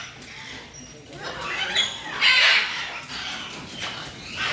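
Macaw giving harsh squawks, the loudest about halfway through.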